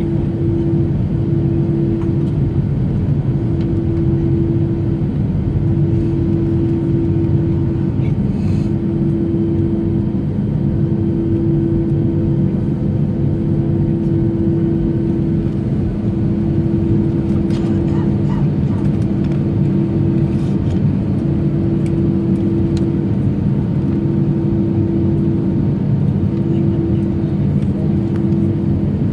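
Steady low rumble inside a jet airliner's cabin as it rolls on the ground after landing, engines at idle. A humming tone cuts in and out every second or two.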